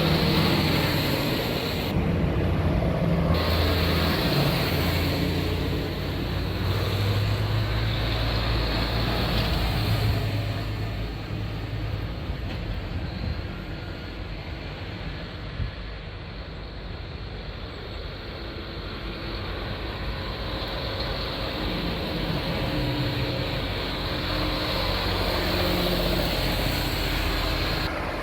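Tractor engines running, with low engine notes that shift in pitch; louder at the start, quieter through the middle, then building again near the end.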